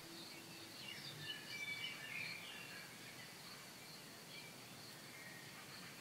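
Faint outdoor ambience with a few soft bird chirps, mostly in the first couple of seconds, over a thin steady high-pitched tone and low hiss.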